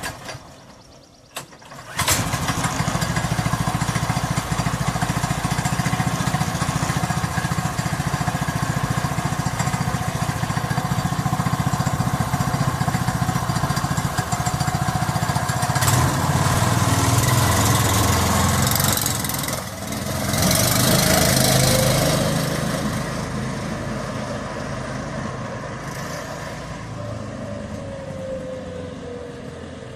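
An engine starts about two seconds in, after a couple of clicks, and runs steadily. It gets louder past the middle, then fades, with a falling whine near the end.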